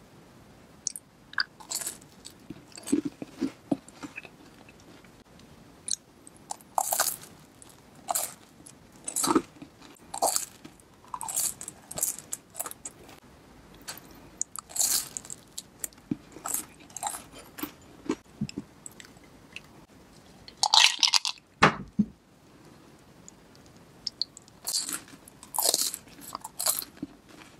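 Biting and chewing of crisp, oven-baked toast sticks topped with sugar-powder icing, crunching in short, irregular bursts. A brief louder clatter comes about three-quarters of the way through.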